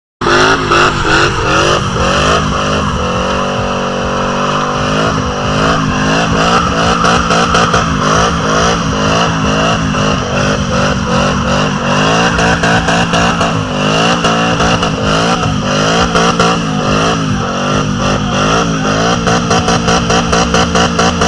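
Car engine revved hard again and again, its pitch rising and falling in quick swings, cutting in suddenly.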